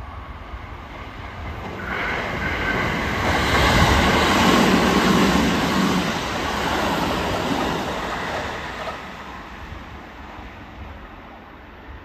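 Kintetsu 5209 series and 1430 series electric train running through the station on an express service without stopping. Its wheel and motor noise rises as it approaches, is loudest about four to six seconds in, then fades as it moves off.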